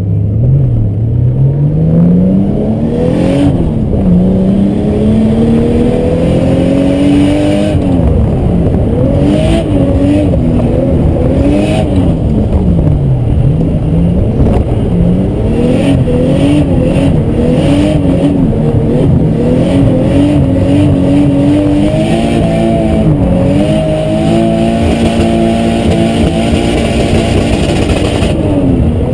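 Turbocharged RB25DET straight-six of a Nissan Skyline R32, heard from inside the cabin, revving hard. Its pitch climbs steadily for the first several seconds, then rises and falls again and again as the throttle is worked while drifting.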